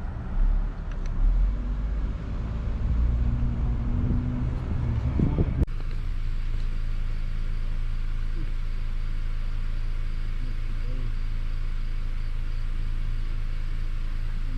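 A motor vehicle running, uneven at first. After a sudden cut about halfway through, it becomes a steady low drone.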